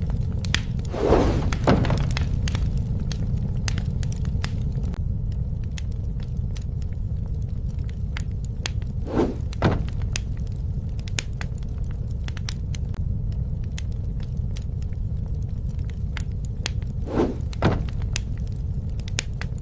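Campfire burning: frequent sharp crackles and pops over a steady low rumble. Three times, roughly every eight seconds, a short two-part sound falls in pitch; these are the loudest moments.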